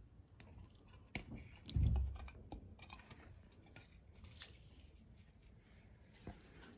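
Small close handling sounds: scattered light clicks and taps, with one dull thump about two seconds in.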